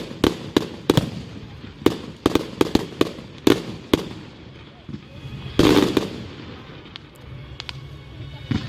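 Fireworks going off: a quick run of sharp bangs for the first four seconds, one louder, longer blast a little past halfway, then a few scattered bangs.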